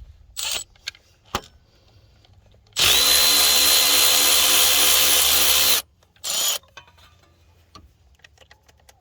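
Milwaukee cordless electric ratchet running out a tight 14 mm bracket bolt: a short blip, then a steady whirring run of about three seconds, then another short blip.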